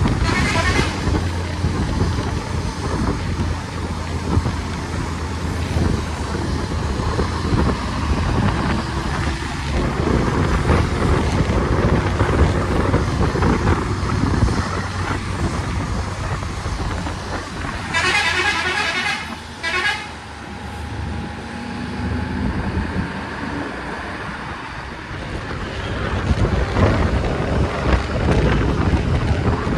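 A vehicle running on the road, with a steady low engine hum and road noise. A horn sounds briefly at the start and again for about two seconds about 18 seconds in, its tone wavering.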